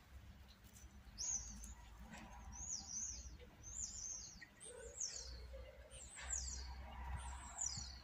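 A bird calling repeatedly: a string of short, high chirps about one a second, starting about a second in, each a quick note that rises and falls or slides downward.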